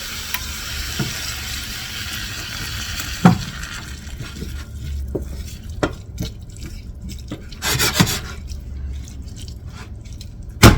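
Kale, onion and garlic sizzling in a pan just after chicken broth is added. The hiss dies down over the first few seconds, with scattered knocks of a utensil stirring against the pan.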